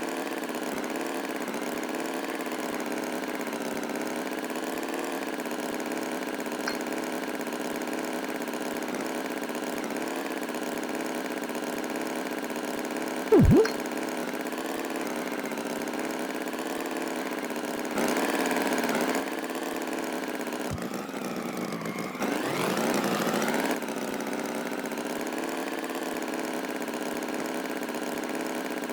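A steady motor drone like an idling engine runs throughout. About 13 seconds in comes a brief loud swooping tone, and a rising glide follows a little after 22 seconds.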